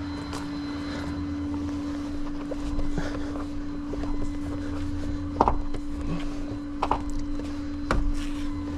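Tow truck engine idling with a steady low rumble and hum, with three sharp knocks about halfway through and near the end.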